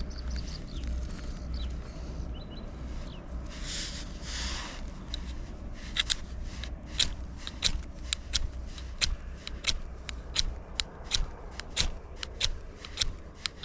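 A knife scraped again and again down a ferrocerium rod (fire steel) to strike sparks, a run of quick sharp scrapes at about two to three a second starting about six seconds in. A short rustle comes a little before it.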